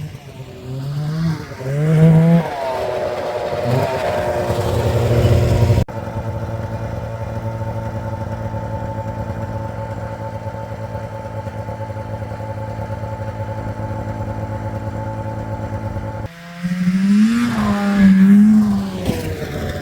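Snowmobile engine revving up and easing off several times, then a steady even engine note for about ten seconds, then revving again; the sound changes abruptly twice, as at edits between shots.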